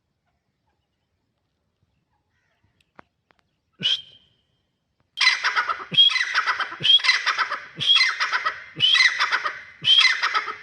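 Grey francolin calling: a single short note about four seconds in, then a run of six loud, harsh phrases repeated back to back, each just under a second long.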